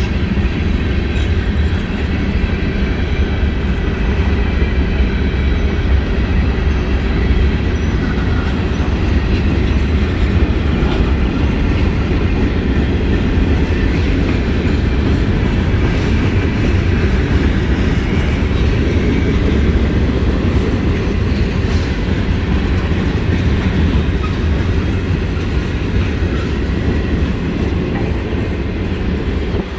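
CSX mixed freight train rolling past at close range: a steady loud rumble of steel wheels on rail with clickety-clack from the cars.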